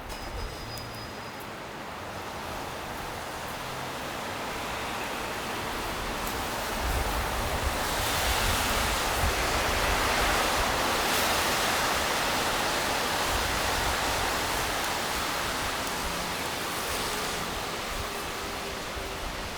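A vehicle passing slowly on a wet, slushy street: the hiss of its tyres swells to a peak about halfway through, then fades.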